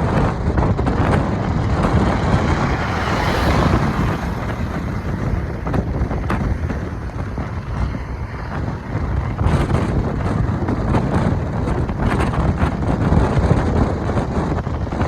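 Strong wind blowing across the microphone, swelling and easing in gusts.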